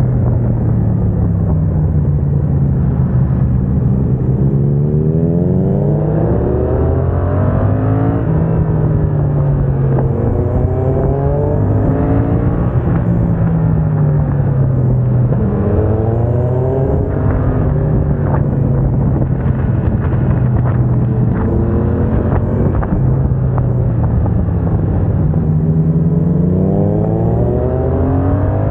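Yamaha MT-07's 689 cc parallel-twin engine through a MIVV aftermarket exhaust, accelerating repeatedly. The revs climb and then fall sharply at each upshift, made with a HealTech quickshifter, several times over.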